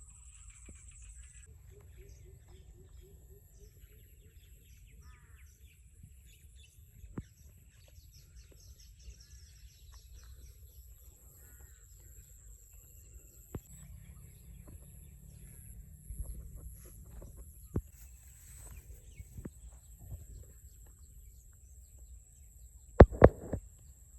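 Outdoor field ambience: scattered faint bird calls over a steady high-pitched whine. Two sharp knocks come close together near the end.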